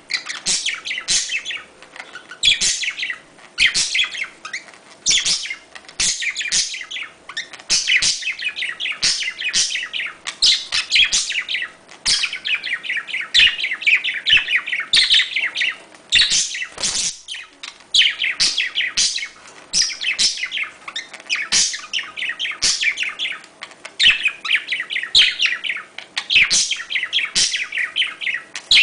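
Budgerigars chirping and warbling continuously, a steady stream of quick, high chirps: the chatter of budgies in breeding condition.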